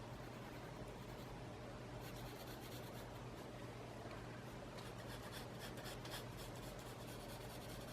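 Pencil shading strokes scratching faintly on sketch paper, in short runs about two seconds in and again around five to six seconds in.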